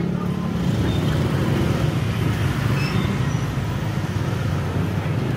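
Street traffic: car and motorbike engines running and passing in a steady low rumble, with a few faint short high tones over it.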